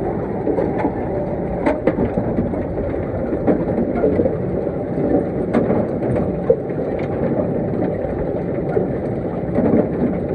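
John Deere 6130R tractor pulling a Grimme SE140 potato harvester as it lifts potatoes: a steady low mechanical rumble, with scattered sharp clicks and knocks.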